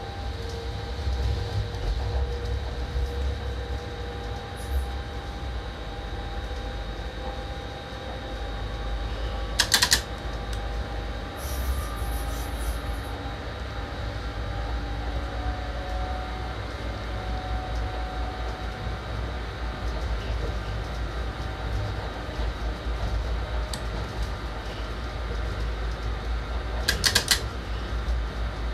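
Electric train running along the track, heard from inside the driver's cab: a steady low rumble with faint whining tones. Two short sharp knocks come, one about ten seconds in and one near the end.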